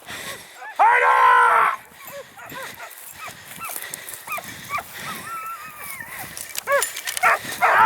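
Hunting hounds baying on a wild boar. They give many short, rising-and-falling yelps, one long loud bay about a second in, and several voices overlapping near the end.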